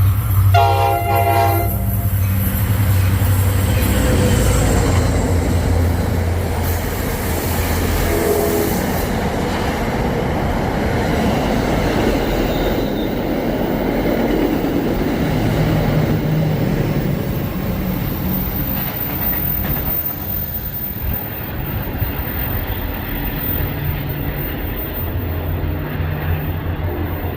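A diesel-hauled passenger train running through the station: a locomotive horn sounds a blast in the first two seconds and a shorter toot about eight seconds in. The engine runs and the wheels rumble and clatter on the rails.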